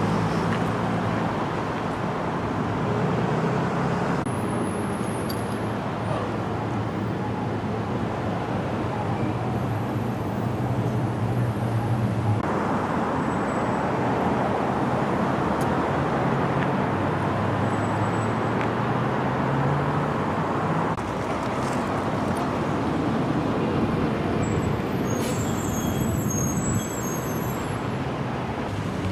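Steady road traffic noise, with vehicle engines running and a low engine hum.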